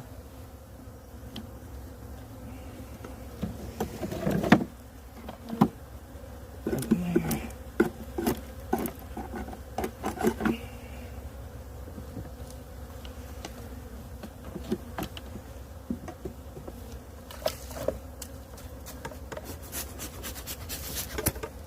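Honeybees buzzing steadily around an open hive, with scattered knocks and scrapes of wooden hive frames and parts being handled, loudest about four seconds in.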